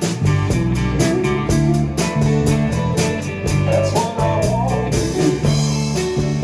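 Band playing an instrumental passage of a song: guitar and bass over a steady drum beat, with a lead line that bends and wavers in pitch a little past the middle.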